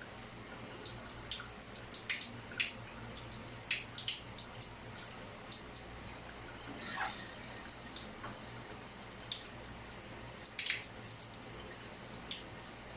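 Water from the newly fitted shower dripping and splashing in irregular drops, over a steady low hum.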